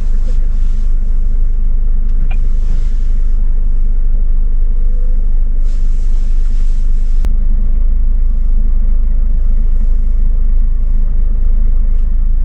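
A heavy truck pulling a fully loaded trailer, heard from inside the cab: a steady low rumble of engine and road. A single sharp click about seven seconds in.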